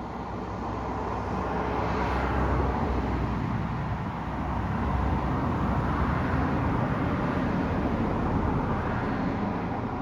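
Road traffic going past: two cars passing one after the other, their tyre and engine noise swelling and fading, the first peaking about two seconds in and the second through the latter half.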